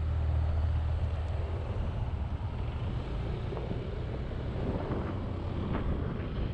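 Motorcycle engine running on the move, with road and wind noise. The engine's hum is clearest in the first second, then eases into a steadier low rumble.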